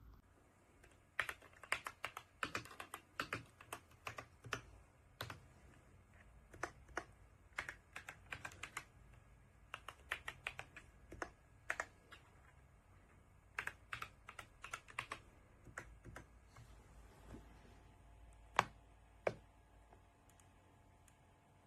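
Typing on an RK Royal Kludge S98 mechanical keyboard: irregular runs of keystroke clicks, a lull about three-quarters of the way in, then two louder single key presses.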